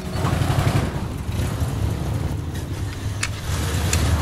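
Large American convertible's engine running with a low, steady rumble as the car pulls away. Two short clicks are heard about three and four seconds in.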